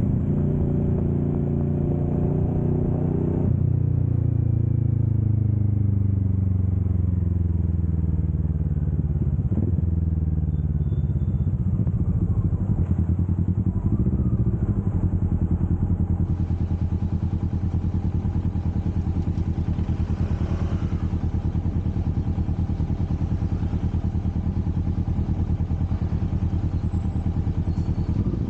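Kawasaki Vulcan S 650's parallel-twin engine running under way. A few seconds in, the revs fall away gradually over about eight seconds, then hold steady again.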